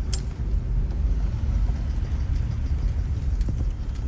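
Truck driving slowly: a steady low engine and road rumble, with one sharp click at the start.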